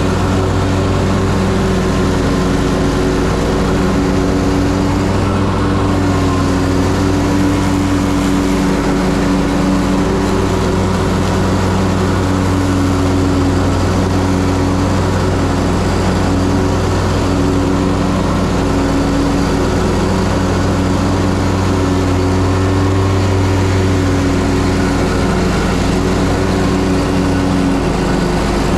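Ferris Z3X zero-turn mower's engine running steadily at a constant speed, a loud even drone with only slight shifts in level.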